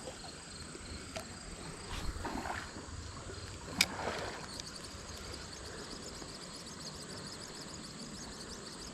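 Creek water running steadily, with a few brief splashes and a sharp click about four seconds in; a faint steady insect drone sits high above.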